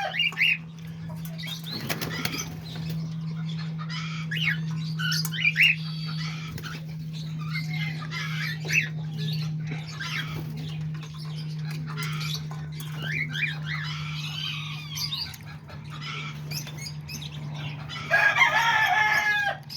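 Small cage birds (parakeets, lovebirds and cockatiels) flapping their wings and chirping in short scattered notes, over a steady low hum. A loud, harsh bird call comes near the end.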